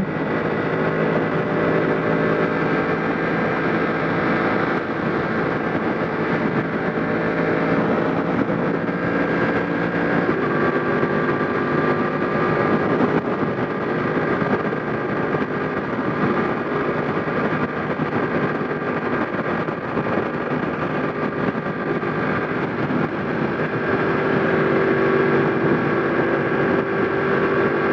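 Yamaha MT-10's crossplane inline-four engine at a steady highway cruise of about 100 km/h, with wind rushing over the helmet microphone.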